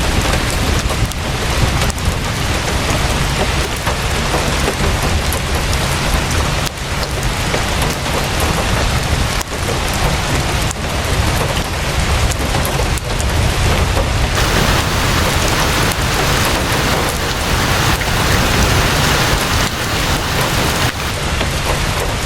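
Heavy rain falling steadily, with a deep low rumble underneath. The hiss of the rain grows brighter about two-thirds of the way through, then eases back near the end.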